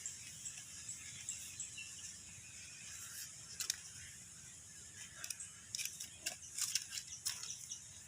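Scattered light clicks and scratchy rustles over a faint hiss, growing thicker and louder about five to seven and a half seconds in.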